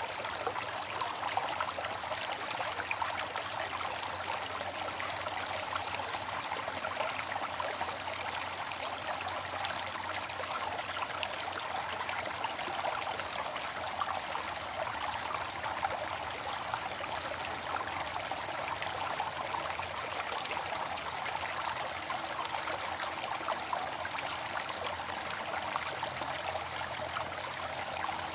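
Water fountain splashing and trickling steadily, a continuous even rush of falling water.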